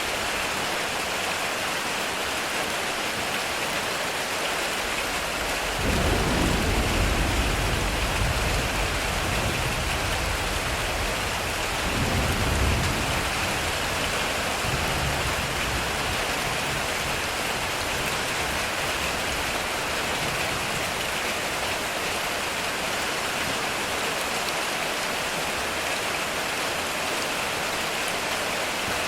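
Heavy rain drumming steadily on a metal roof. Thunder rumbles low about six seconds in for several seconds, and again more briefly about twelve seconds in.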